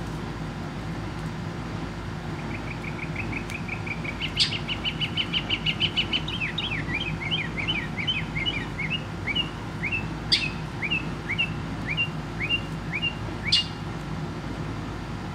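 Small bird singing: a fast run of chirps that gives way to a slower series of down-sliding chirps, over a steady low hum. Three sharp clicks stand out, about four, ten and thirteen seconds in.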